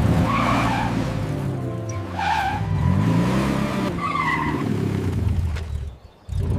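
Car engine revving up and down with tyre squeals, about three in all, over background music; the sound cuts out briefly near the end.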